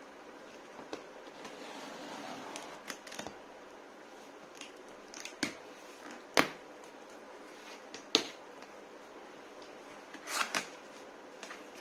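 Handling noises of a laptop and its packaging being unboxed: a soft rustle early on, then scattered sharp clicks and taps, the loudest about six and eight seconds in, and a short cluster of them near the end.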